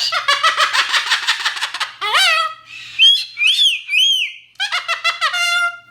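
A cockatoo screeching: a harsh, rapidly pulsing screech for about two seconds, then a string of shorter squawks that rise and fall in pitch.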